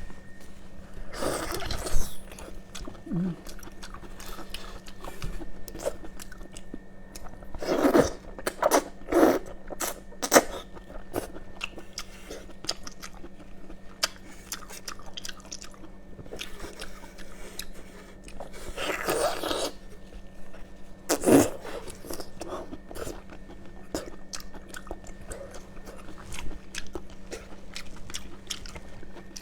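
Close-up eating sounds of a person biting and chewing seafood: many sharp crackles and wet chewing, with louder crunches about two seconds in, around eight to ten seconds, and around nineteen and twenty-one seconds. A faint steady hum runs underneath.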